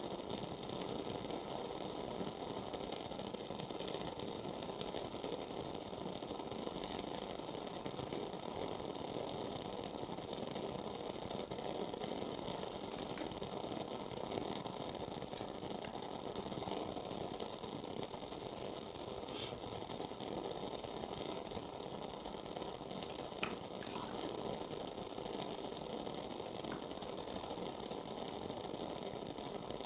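Wooden-wick candle burning with a few faint crackles over steady background noise.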